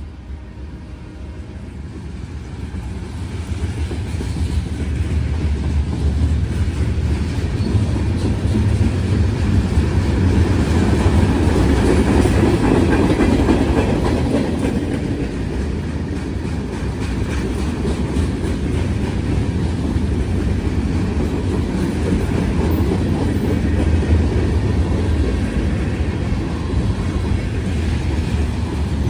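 Freight cars of a CSX mixed freight train rolling past: a steady rumble and clatter of steel wheels on the rails, building over the first few seconds and then holding.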